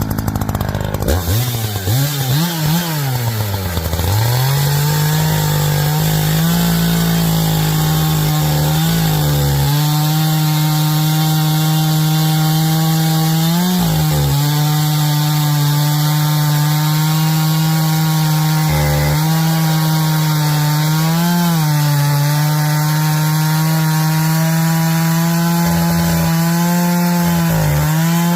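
Echo chainsaw revving up and down a few times, then running at steady full throttle as it cuts noodles along the grain of a pine log, its pitch wavering briefly every few seconds as the chain bites.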